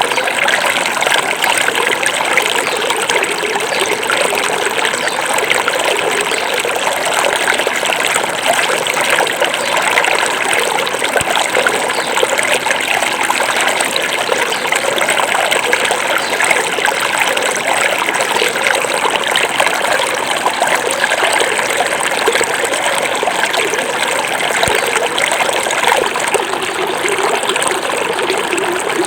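Small forest river flowing, a steady rushing and trickling of water over its bed.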